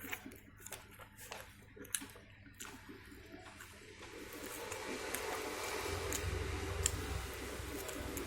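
Close-miked eating sounds: wet chewing and lip smacks with sharp clicks. About halfway through a steady noise with a low rumble rises underneath.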